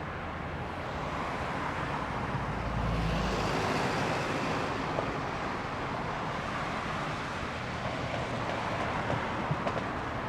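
Steady city road traffic, with one vehicle passing close and swelling up then fading between about two and a half and four and a half seconds in.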